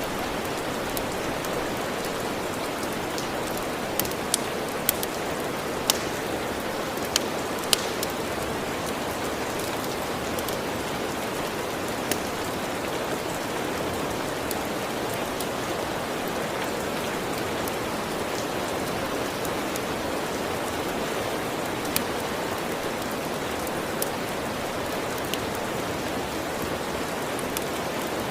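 Steady rain with occasional sharp crackles and pops from a wood fire, several close together a few seconds in.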